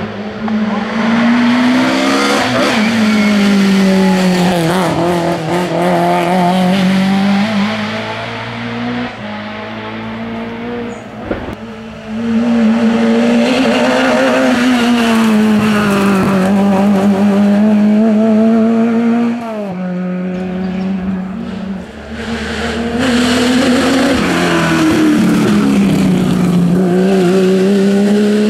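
Historic rally cars driven flat out on a tarmac stage, their engines revving hard and dropping through gear changes and corners, with tyres squealing; cars come past one after another.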